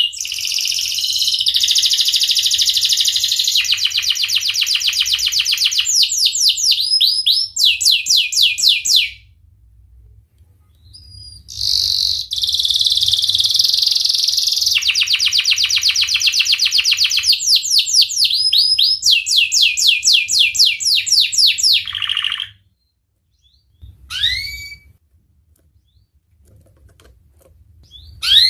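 Canary singing long rolling trills of rapid, repeated rising notes, in two extended bursts separated by a pause of a few seconds. Near the end come a few single upslurred chirps.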